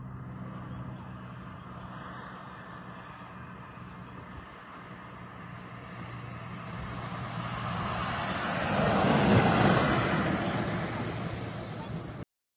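Twin Enjet-100 model turbine jet engines running, a rushing jet noise with a high whine. The sound builds to its loudest about nine seconds in, then eases, and cuts off suddenly near the end.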